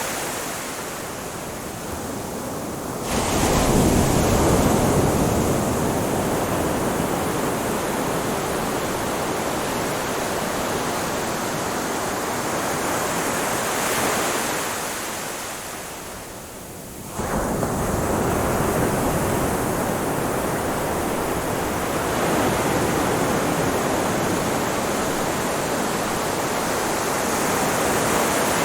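Ocean waves breaking on a shore, a steady wash of surf. Two waves break with a sudden surge, about three seconds in and again about seventeen seconds in, each after a brief lull.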